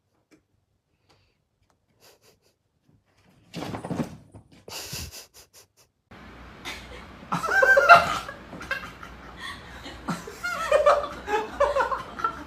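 Near silence, then a short rustling noise about four seconds in; from about six seconds in, people laughing over a low hum, loudest around eight seconds in.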